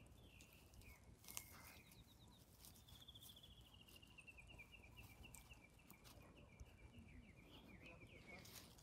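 Faint birdsong: after a few short high calls, a small bird sings a long trill of quick repeated notes that slowly falls in pitch over about five seconds. A few light crackles of a dog's paws in dry leaf litter.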